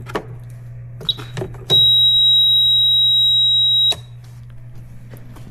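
A few clicks and clatters as the battery jumper's clamps go on, then one steady high-pitched electronic beep about two seconds long from the jump starter.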